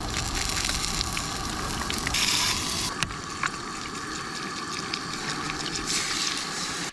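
Food sizzling in a pan on a camp stove: a steady frying hiss with scattered small pops, briefly louder about two seconds in.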